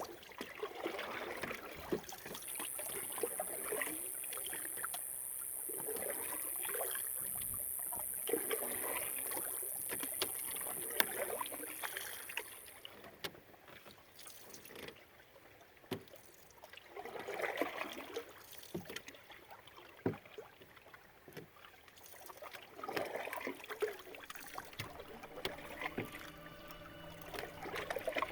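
Canoe paddles dipping and pulling through river water, a soft swish of water every few seconds.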